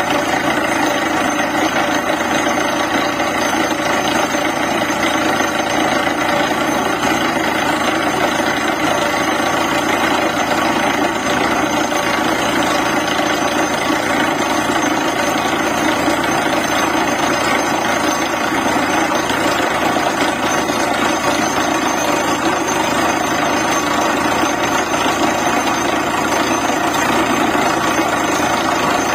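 Borewell drilling rig running steadily: a loud, continuous machine din with a steady engine hum and no breaks.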